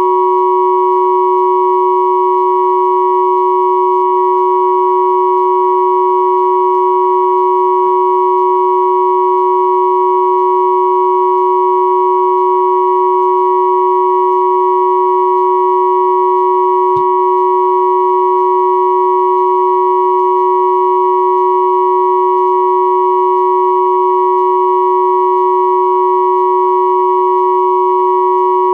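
Synthesized pure tones at about 369, 963 and 1111 Hz, sounding together as one steady, unchanging chord.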